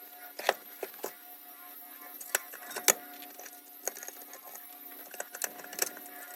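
Scattered sharp clicks and knocks, about seven over a few seconds, from handling tools and parts, over faint steady background music.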